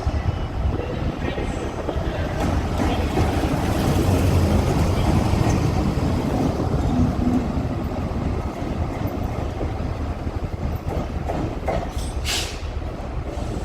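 Class 70 GE PowerHaul diesel locomotive running light engine past at speed, its engine and wheels a steady low rumble that swells to a peak about four to six seconds in and then eases off. A brief high-pitched sound comes near the end.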